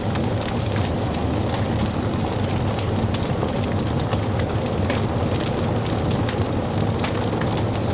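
Wood fire crackling and popping: many small sharp snaps of burning wood over a steady low rumble of the flames.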